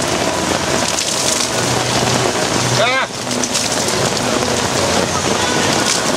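Heavy rain pouring steadily and drumming on a fabric canopy overhead. A short vocal exclamation cuts through about three seconds in.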